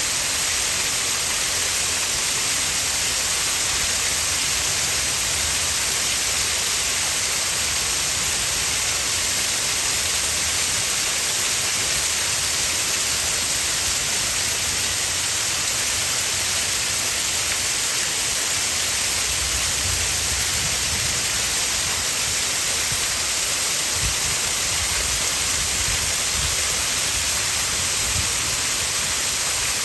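Small garden waterfall: steady rush and splash of falling water, with a low rumble coming and going in the second half.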